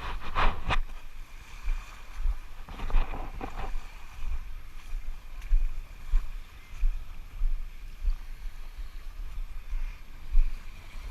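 Lake water splashing and sloshing around someone moving in it, with a few sharper splashes in the first few seconds and irregular low rumbling buffets on the microphone.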